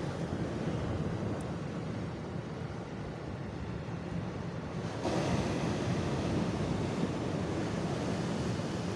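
Sea waves breaking and washing on the shore in a steady rush, with wind on the microphone; a wave surges in louder about five seconds in.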